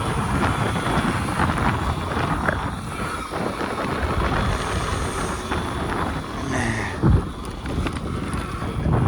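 Wind buffeting the microphone while riding an electric pit bike, with a loud thump about seven seconds in.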